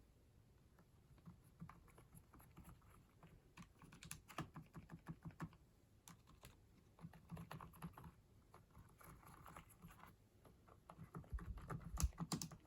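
Logitech K295 Silent Touch wireless keyboard being typed on: soft, muted keystrokes in quick uneven runs, very quiet, with a denser, louder cluster of keystrokes near the end.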